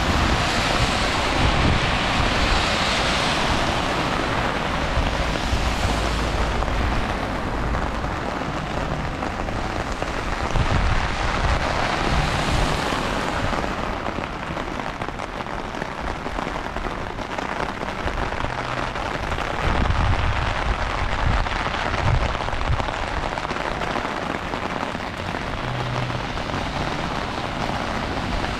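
Heavy rain falling steadily, an even, dense hiss, with a few brief low rumbles now and then.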